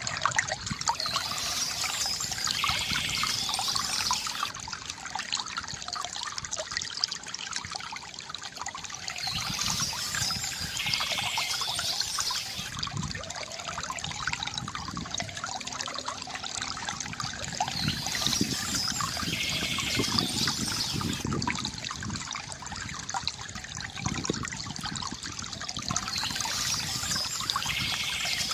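Bamboo water fountain trickling and gurgling steadily. A brighter, higher sound recurs about every eight to nine seconds.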